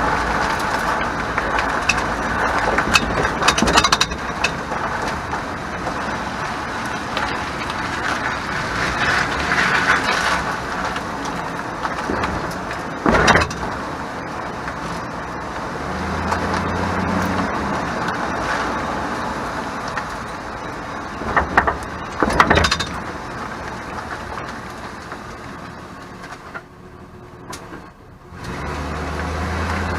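2001 Chevrolet Silverado 1500 driving over a rough road, with steady road noise and a rattle from the rear as the back wheels hit bumps. There are light clicks early on, one sharp rattling knock near the middle, and two close together later. The rattle is caused by the parking brake (e-brake).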